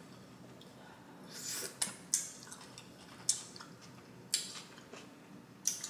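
Chewing a butter-sauced mussel close to the microphone: a handful of wet mouth smacks and clicks about a second apart, with quiet chewing between them.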